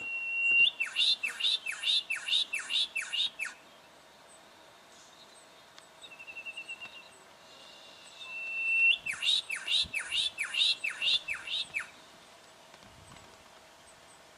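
Juvenile brown goshawk calling in two bouts. Each is a short held whistle running straight into a fast series of six or seven harsh, downward-sliding notes, with a fainter short run of notes between the bouts.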